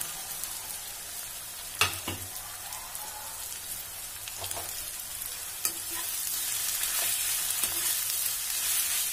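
Cut okra sizzling in hot mustard oil in a metal kadai, stirred with a perforated metal ladle that clicks and scrapes against the pan. A sharp knock comes about two seconds in, and the sizzle grows louder in the second half.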